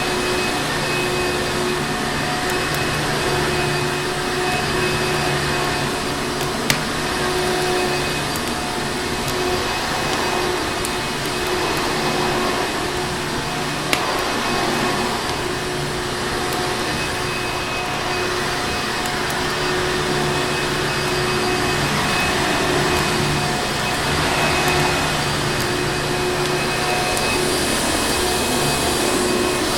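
Vacuum cleaner motor running steadily: an even rushing noise with a constant motor whine. Two isolated sharp clicks, about 7 and 14 seconds in.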